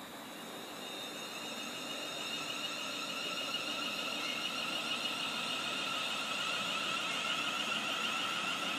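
An approaching train: a high-pitched, warbling whine of several steady tones that grows steadily louder as the train nears.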